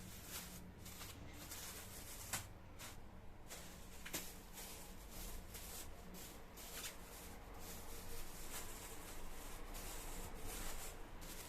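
Quiet handling sounds: steady rubbing and rustling, with a few sharp light clicks scattered through it.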